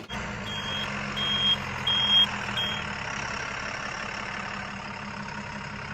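A vehicle's reversing alarm beeps four times, evenly spaced, over a steady engine hum. The engine keeps running after the beeps stop.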